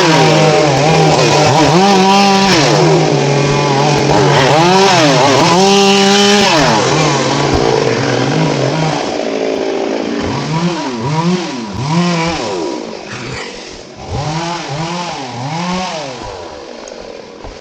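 Two-stroke chainsaw engine revving up and down over and over, loud at first, then fainter with quicker, shorter revs in the second half.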